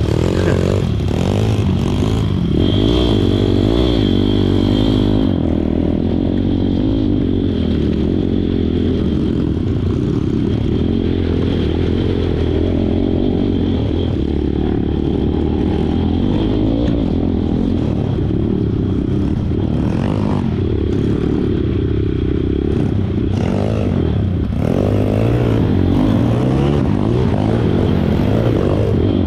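Pit bike engine running while riding, its pitch rising and falling as the throttle opens and closes, with a few brief knocks and clatters along the way.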